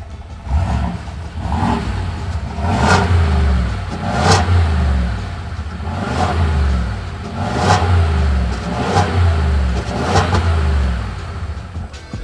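A vehicle engine revved again and again, about seven surges roughly a second and a half apart, starting about half a second in.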